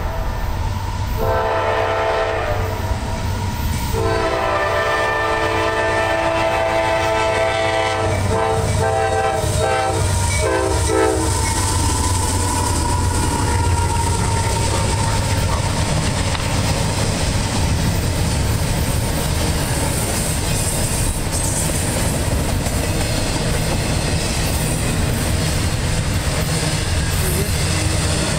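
Air horn of CSX CW44AC locomotive 98 sounding a series of long blasts, a crossing signal, over roughly the first eleven seconds. After that comes the low rumble and clickety-clack of double-stack container well cars rolling past on the rails.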